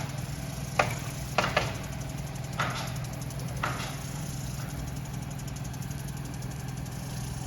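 A steady low mechanical hum, like an engine idling, with five sharp clicks or knocks in the first four seconds; the first, about a second in, is the loudest.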